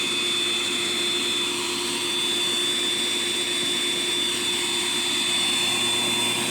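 Motor of a Eureka The Boss Super Light bagless upright vacuum running steadily, with a constant high whine over its airflow noise.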